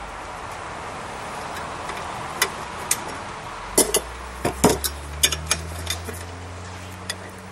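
Steel tools striking and clinking on hot steel: about a dozen sharp, irregular metallic taps, some in quick pairs, over a steady low hum.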